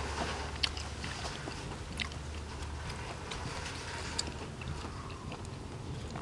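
A person chewing and biting food close to the microphone: scattered wet mouth clicks and smacks, with a few sharper clicks standing out, over a steady low hum.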